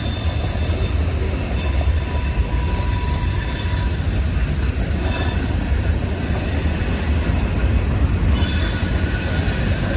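Freight cars of a long CSX freight train rolling past: a steady heavy rumble of wheels on rail, with thin high-pitched wheel squeal over it.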